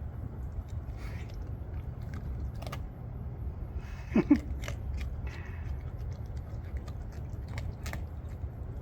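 Raccoon crunching dry cat food in its teeth, with scattered sharp crunches over a steady low hum. About four seconds in there is one brief pitched sound that bends in pitch, the loudest thing heard.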